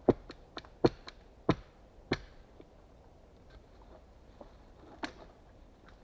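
Sharp blows of a hand tool striking wood: four hard strikes about two-thirds of a second apart, with lighter knocks between them, then one more single strike about five seconds in.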